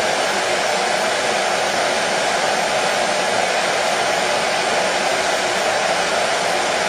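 Hair dryer blowing steadily, an even whooshing hiss with a faint motor hum, unchanging throughout; played as white noise to calm colicky babies.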